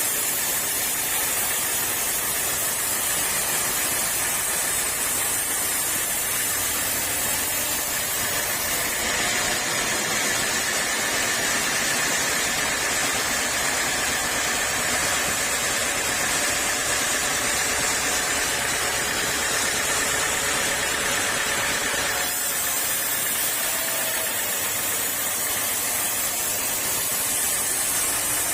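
Sawmill saw running steadily, with a higher whine and extra hiss added for about fourteen seconds in the middle as the blade cuts through a teak log.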